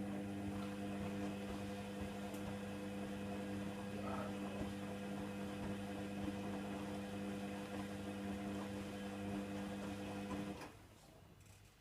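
Hoover Nextra washer dryer running with a steady electric motor hum, which cuts off about ten and a half seconds in.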